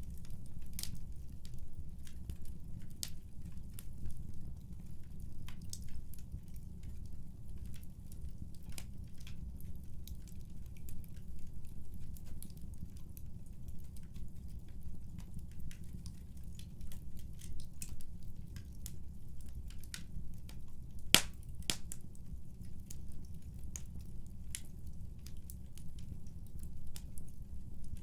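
Wood fire burning in a fireplace: a steady low rumble of the flames with irregular sharp crackles and pops, the loudest pop about 21 seconds in.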